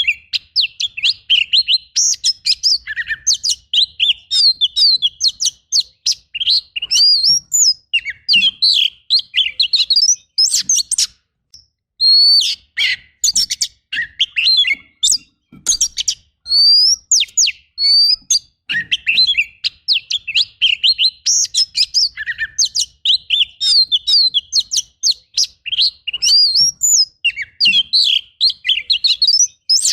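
Oriental magpie-robin singing a fast, loud, varied song of whistled notes and harsh rapid phrases, packed with mimicked calls. There are short breaks about eleven and sixteen seconds in.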